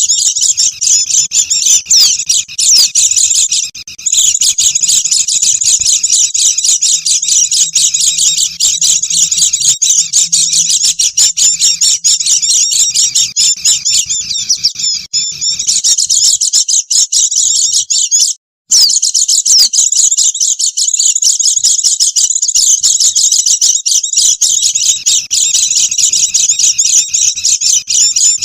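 A noisy flock of white-eyes (pleci) chattering and twittering in dense, high-pitched chirps with no pause, apart from a momentary break about two-thirds of the way through.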